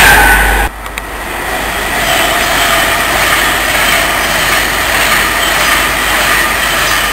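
Pendolino electric express train running through the station at speed: a steady rush of wheels on rail with a faint whine, building over the first couple of seconds. A louder train sound with a high whine is cut off abruptly under a second in.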